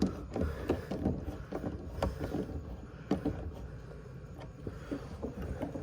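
Irregular small clicks and knocks of hands working a hose clamp onto a boat fuel hose.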